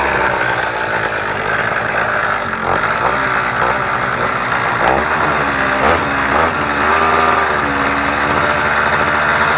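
Small engine of a motorized BMX bicycle, fitted with a homemade little muffler, revving up and down several times, then holding a steadier speed near the end.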